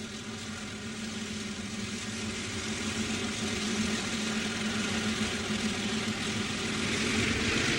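Diesel locomotives of a freight train running as the train approaches, the engine sound growing steadily louder.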